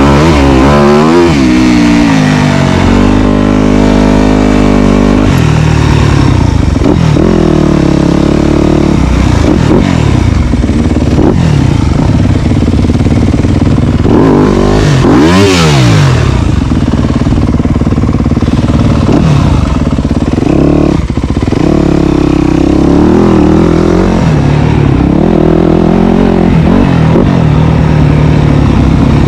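Dirt bike engine running loud, its pitch climbing and dropping over and over as the throttle is opened and closed and the gears are worked. About halfway through there is a brief louder rush of noise with a sharp rise and fall in pitch.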